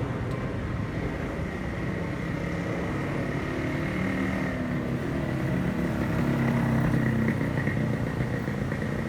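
An airplane flying past, its engine droning steadily and growing louder to a peak about seven seconds in.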